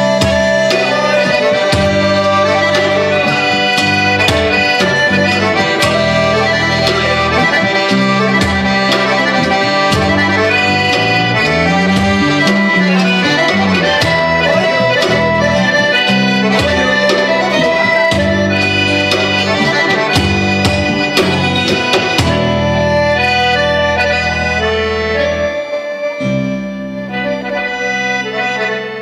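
Live folk band playing an instrumental passage led by accordion, with sustained bass chords. It thins out in the last several seconds and fades toward the end of the song.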